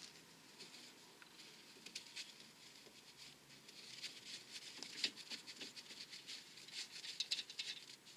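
Faint, irregular light clicks and taps of hand tools on metal.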